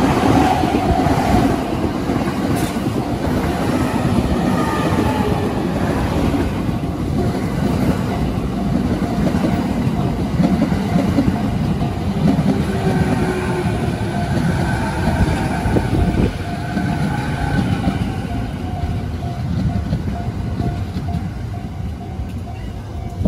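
E217-series electric multiple unit pulling into a station close by, its wheels rumbling and clacking on the rails as the cars slide past. The running noise slowly fades as the train brakes, and a steady high tone comes in over the last third.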